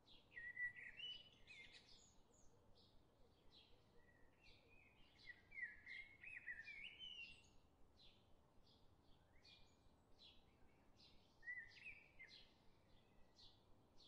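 Faint birdsong in open country: bursts of twittering song about a second in, in the middle and near the end, over a steady run of short, high, evenly repeated chirps.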